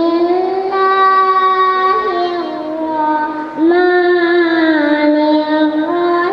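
A young girl's voice reciting the Quran in a melodic chant, holding two long drawn-out phrases with a short break about three and a half seconds in.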